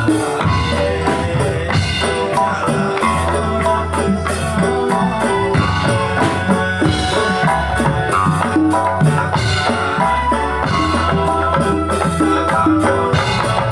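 Ndolalak folk music: drums and rattling percussion keep a steady beat under a melody instrument and a pulsing bass line.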